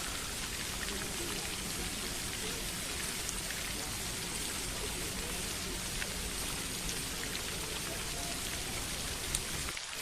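Steady splashing water, an even rushing hiss with fine pattering drops. It briefly cuts out just before the end.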